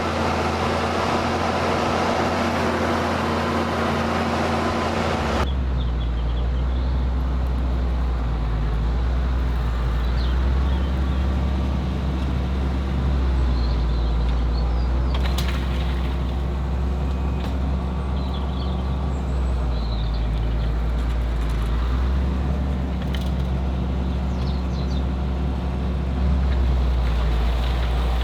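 Ford TW tractor's diesel engine running steadily under ploughing load. About five seconds in, the sound changes abruptly to a deeper, heavier drone with less hiss.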